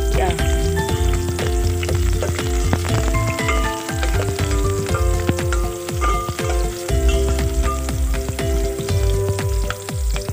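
Shallots, garlic and ginger sizzling and crackling in hot oil in a stainless steel pot, with a spoon stirring them. Background music with a pulsing bass plays over the sizzle.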